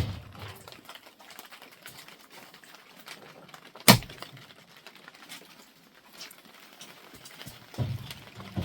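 A single sharp knock about four seconds in, against faint scattered ticking.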